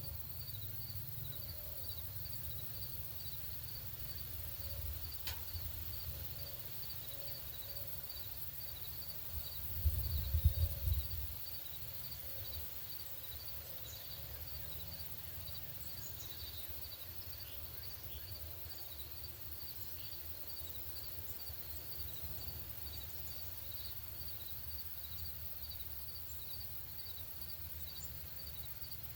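Outdoor ambience: a high chirp repeating evenly about two to three times a second throughout, with a few scattered bird chirps. A low rumble of wind on the microphone comes about ten seconds in and is the loudest sound.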